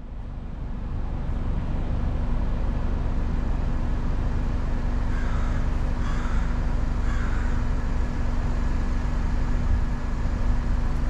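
Car road noise while driving: a steady low rumble with a constant hum underneath.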